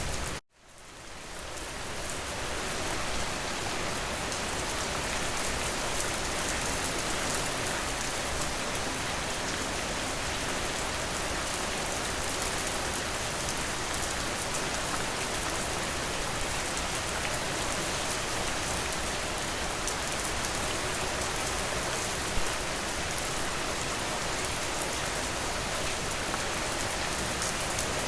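Steady rain falling on a surface, a dense even hiss with scattered drops. Shortly after the start the sound drops out abruptly, then fades back up over a couple of seconds, like a loop restarting.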